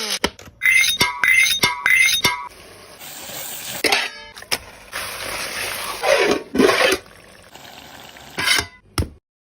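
Cooking sounds in short spliced clips: a spoon stirring and clinking against a pan, and food sizzling.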